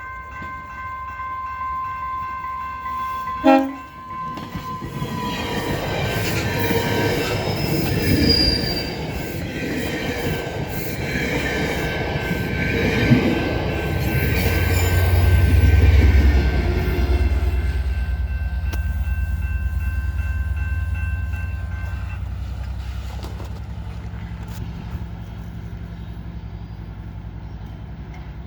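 Diesel commuter train horn sounding a chord that cuts off about three seconds in, then the F59PHI locomotive and bi-level coaches passing close by: wheels on rail and a heavy diesel rumble that builds to its loudest about halfway through and slowly fades as the train moves away.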